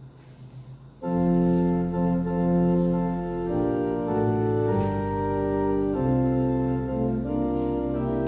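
Church organ playing slow, held chords, starting suddenly about a second in.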